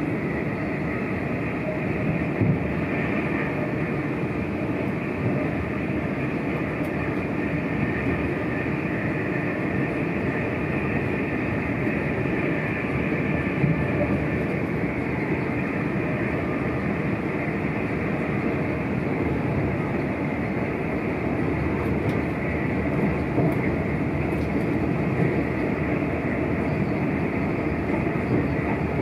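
Steady running noise inside a moving electric passenger train carriage: an even rumble of wheels on the rails with a hiss on top, and a few light knocks.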